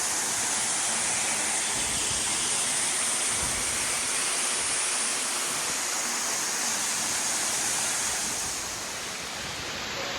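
Waterfall: a steady, full rush of falling water with a bright hiss, easing slightly near the end.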